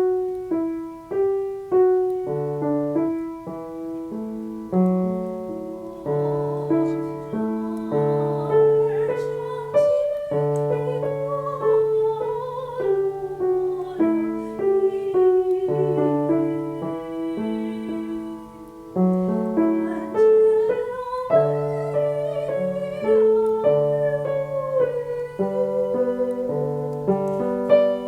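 Piano playing a slow song accompaniment, single melody notes over low bass chords, with a wavering singing voice coming through above it in places.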